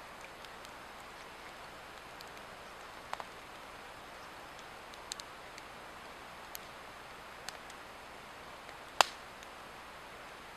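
Swedish torch log fire burning, with scattered crackles over a steady hiss and one loud pop about nine seconds in.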